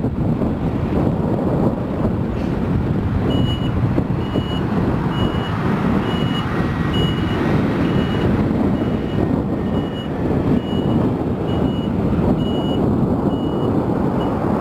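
Truck's reversing alarm beeping about once a second over a running truck engine. The beeps start about three seconds in and go on until near the end.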